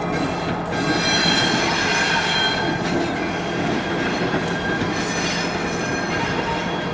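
Steel train wheels squealing against the rails as railroad cars roll slowly past, several high squeals shifting in pitch over a steady rumble.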